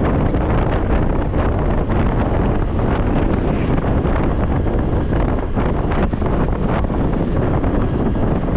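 Steady wind rush over the microphone of a rider on a moving scooter, with road noise underneath.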